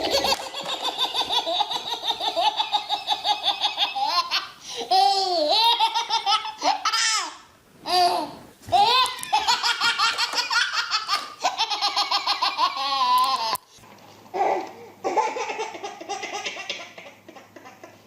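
A young child laughing hard in long belly laughs, each run of rapid pulses broken by short gasps for breath. The laughter dies down to quieter bits for the last few seconds.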